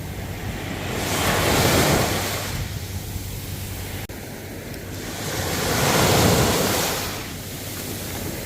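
Ocean waves breaking and washing up on a shore. Two waves swell up and fade, the first about a second in and the second around six seconds.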